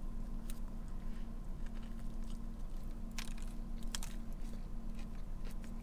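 A person biting into and chewing a soft-roll cheesesteak sandwich: scattered soft, wet mouth clicks. A steady low hum runs underneath.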